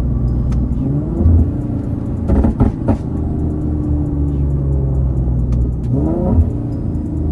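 Infiniti G37's VQ37 V6 under way through a loud aftermarket exhaust, rising in pitch as it revs up about a second in and again about six seconds in, with a brief rough burst of noise around two and a half seconds in.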